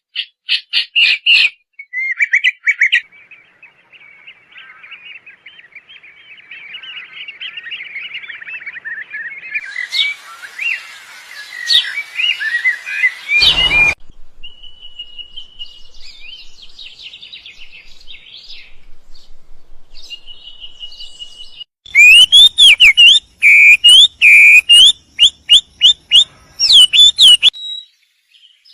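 A songbird chirping and warbling in varied phrases, the kind of song recording played to train caged songbirds. A single thump comes about 14 seconds in, and near the end there is a run of loud, sharp, repeated chirps.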